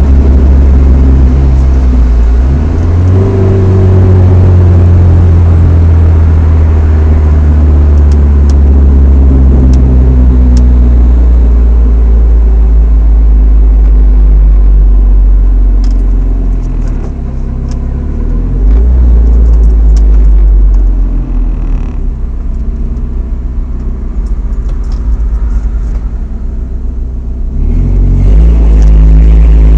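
Chevrolet S10 Xtreme's 2.2-litre four-cylinder engine through a Flowmaster 40 dual exhaust, heard from inside the cab while driving: a deep, steady drone that changes pitch with throttle and gear. It eases to a lower, quieter running in the latter half, then rises as the truck accelerates near the end. The exhaust has a slight leak near the stock manifold.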